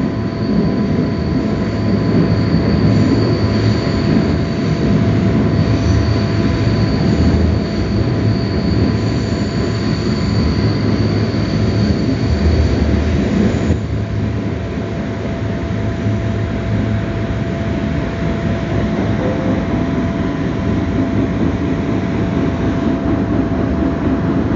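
Passenger train running at speed, heard from inside the carriage: a steady, loud rumble of wheels on rails with a thin high whine over it. About 14 seconds in, the whine stops and the noise drops a little as the train comes out of a tunnel.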